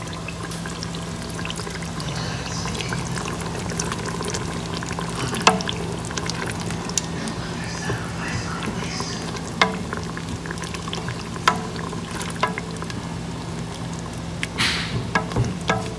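Sliced onions and minced garlic sizzling in melted butter in an enamel pot, stirred with a wooden spoon that knocks against the pot now and then, with a cluster of knocks near the end.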